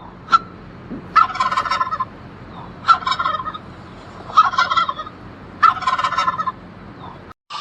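A bird calling four times, each call a rapid rattling burst of just under a second, spaced about a second and a half apart.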